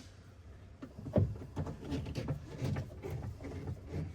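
Scattered faint knocks and rustling of hand work on the car's interior trim, with one sharper knock about a second in.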